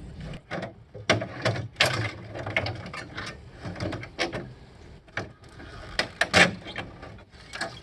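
Irregular clicks, snaps and knocks as a circuit board is pried and pulled loose from a CRT television's plastic cabinet, the board catching and cracking in its mounts.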